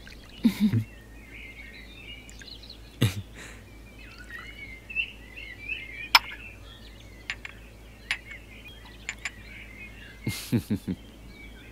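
Small birds chirping steadily in the background, with several sharp light clicks scattered through and brief low vocal sounds about half a second in and again near the end.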